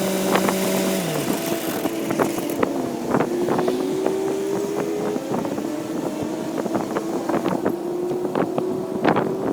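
Heavy construction machine's diesel engine running steadily, its pitch dropping about a second in, with frequent sharp knocks and clanks.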